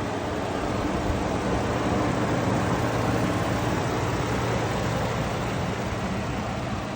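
Steady machine noise with a low hum underneath, swelling slightly about a second in and easing off near the end.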